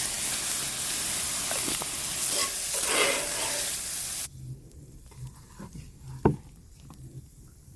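Beef sizzling as it fries in a pan, cut off abruptly about halfway through. A much quieter stretch follows, with a few faint taps and one sharp click.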